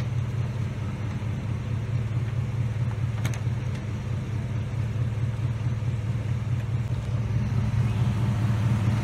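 Cadillac Escalade's 6.0-litre V8 running steadily at idle with the coolant bled, up to temperature and not overheating after a radiator replacement.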